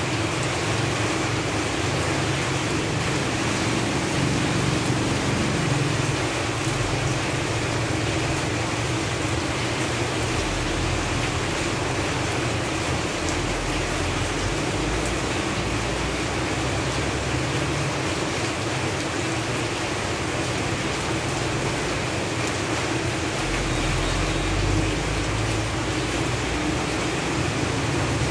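Steady rain falling on leaves, an even hiss of many drops, with a low rumble that swells and fades twice underneath it.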